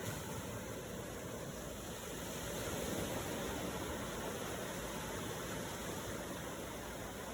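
Steady wash of waves, swelling slightly about three seconds in.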